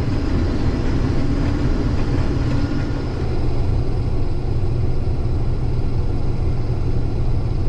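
Case IH 2388 combine running steadily while threshing wheat, an even machine rumble with no break.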